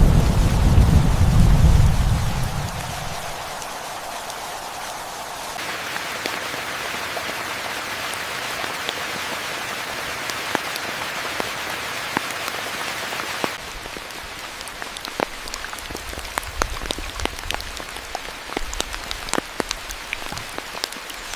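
Rain falling steadily, with a low rumble of thunder dying away over the first three seconds. The rain's sound shifts abruptly twice, and in the later part individual drops tick sharply and distinctly.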